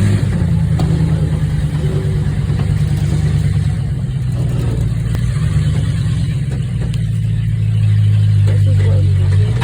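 Monster truck's engine running steadily, a deep even drone, getting a little louder about eight seconds in. Faint voices near the end.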